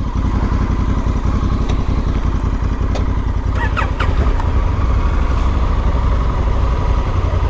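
Honda Africa Twin's parallel-twin engine idling steadily, getting a little louder about four seconds in.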